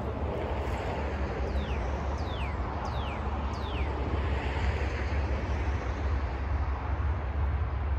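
A bird whistles four quick notes, each sliding downward, over a steady low rumble that slowly grows louder.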